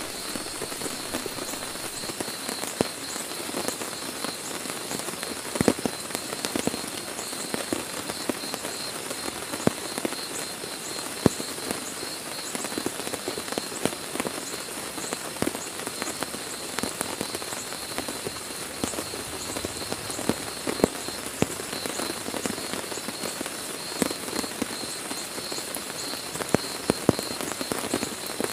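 Heavy rain falling steadily, with frequent loud single drops striking close by at irregular moments.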